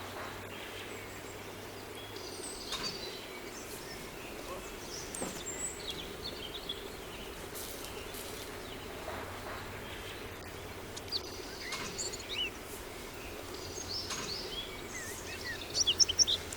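Small birds chirping over a steady background hum, with a quick run of louder chirps near the end.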